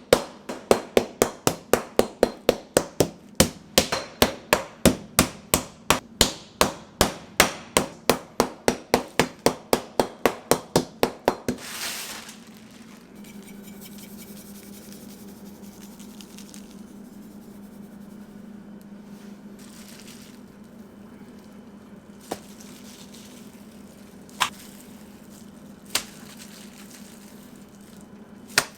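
Pork being pounded flat for cutlets on a cutting board with a meat mallet: sharp even strikes, about three to four a second, that stop about eleven seconds in. After that a low steady hum with a few isolated clicks.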